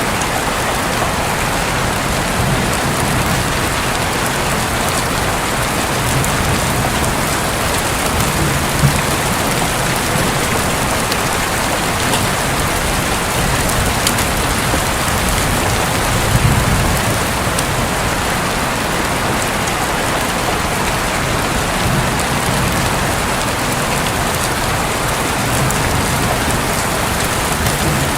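Heavy rain falling steadily on a roof, an even, unbroken hiss of many drops.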